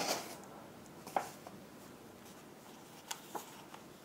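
Faint handling noises of parts and packaging from a newly unboxed espresso machine: a brief rustle at the start, a sharp click about a second in, and a few light taps near the end.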